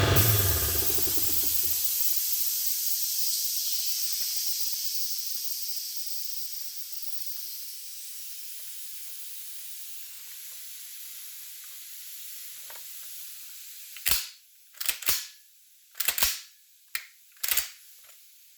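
A loud hiss that fades away over the first dozen seconds. Then a series of sharp metallic clicks and clacks from the Beretta A300 Outlander shotgun's action being worked to check that it functions.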